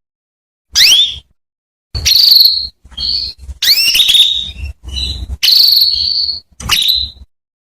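Female canary calling: about seven short bursts of high chirps, some sweeping upward and some holding a steady high note, with brief silent gaps between them.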